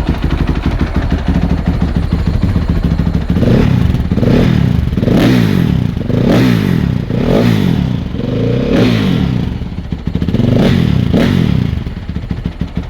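Warm motorcycle engine running through its stock exhaust, idling and then revved in a series of about eight short throttle blips, each rising and falling. It is still loud, but much quieter than the aftermarket pipe it replaces.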